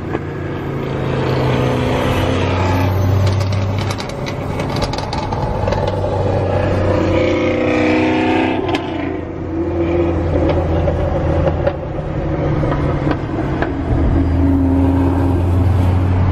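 Car engines running at high idle and being revved, the engine notes rising and falling over a steady low exhaust rumble.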